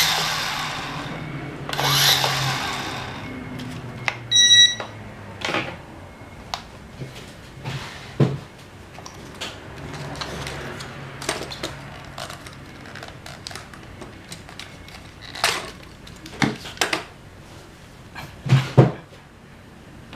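Repair work on a small SG900-S camera drone: scattered clicks and knocks of plastic parts and tools being handled, with a short electronic beep about four and a half seconds in.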